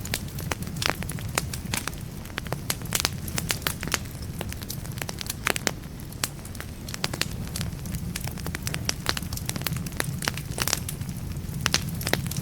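Wood fire in a fireplace, burning logs crackling with frequent irregular sharp pops over a steady low rumble of flame.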